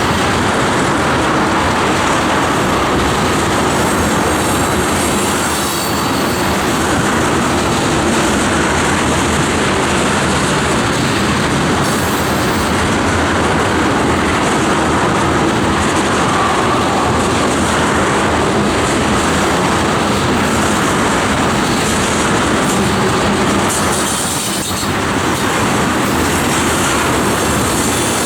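Tank cars of a loaded ethanol freight train rolling past close by: a steady, loud rumble and clatter of wheels on rail with some wheel squeal.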